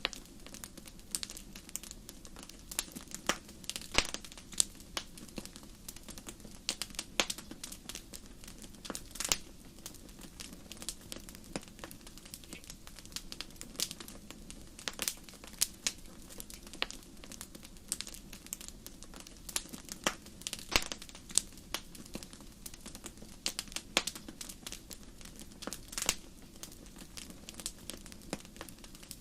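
Wood fire burning in a fireplace: frequent, irregular sharp crackles and pops over a soft, steady low hiss of the flames.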